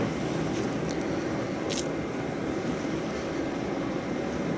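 Strong wind blowing on the microphone, a steady rumbling rush, with one sharp snap from the campfire or the wood being laid on it a little under two seconds in.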